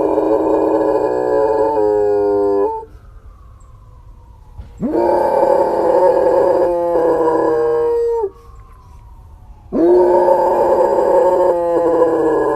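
Dog howling: three long howls, each held for about three seconds with a wavering break near its end, the second starting about five seconds in and the third about ten seconds in.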